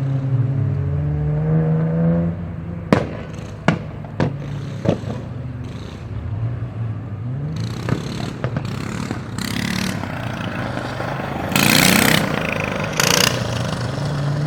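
Car engine running, its pitch falling over the first two seconds, then a few sharp knocks and several short bursts of hissing noise, the loudest about twelve seconds in.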